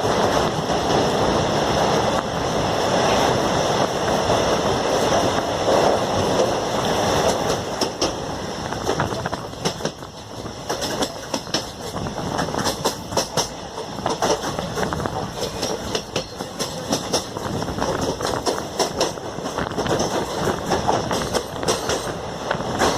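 Passenger train running along the track with a steady rumble. From about eight seconds in comes a rapid, uneven clatter of wheel clicks over the rail joints.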